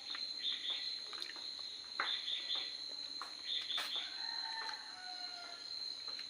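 Insects, likely crickets, keep up a steady high-pitched drone. Short chirps come in little groups of two or three every second or two, with a few sharp clicks in between.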